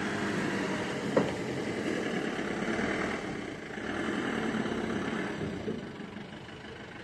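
A heavy vehicle's engine running steadily, with one sharp click about a second in.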